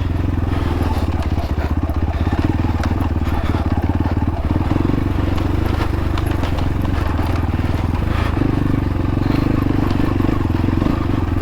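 Xpro Templar X dirt bike engine running steadily at low speed, its note lifting a little about four and a half seconds in and again about eight seconds in.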